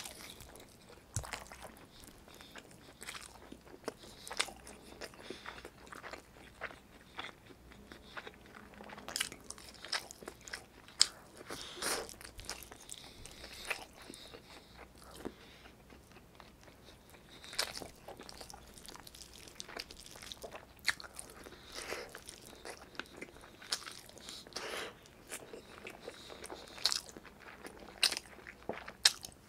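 Close-miked eating sounds of a person chewing braised chicken adobo and rice eaten by hand: wet chewing and lip smacks, with irregular sharp clicks scattered throughout.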